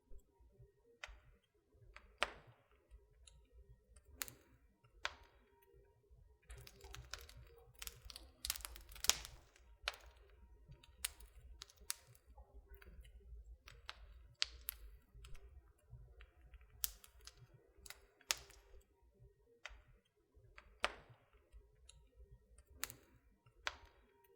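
Wood fire in a fireplace crackling: irregular sharp pops and snaps, busiest from about 7 to 10 seconds in, over a faint low rumble.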